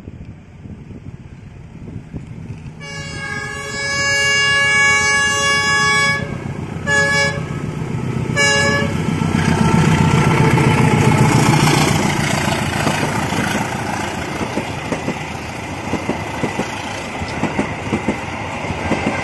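Train horn with several tones sounding one long blast of about three seconds, then two short toots. The train then passes close by, its engine rumbling and its wheels clattering over the rail joints.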